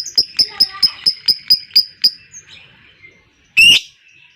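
Lovebird ngekek (long chattering song): a rapid, evenly spaced run of sharp high chirps, about four or five a second, breaking off about two seconds in. One loud harsh screech comes near the end.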